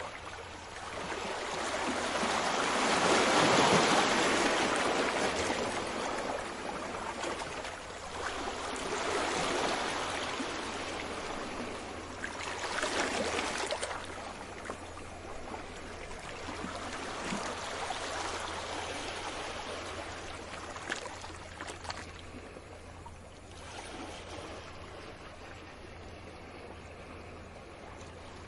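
Sea waves washing onto the shore, swelling and fading in several surges, the loudest a few seconds in and softer toward the end.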